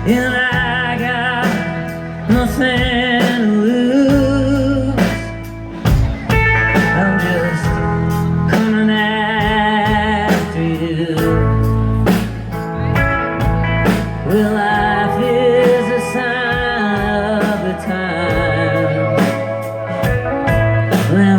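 Rock band playing a song: drums, a steady bass, and a wavering lead melody carried over the band.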